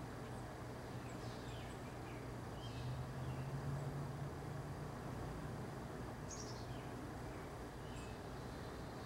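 Wild birds calling faintly now and then, short high chirps and quick falling notes, over a steady low hum that swells briefly around three seconds in.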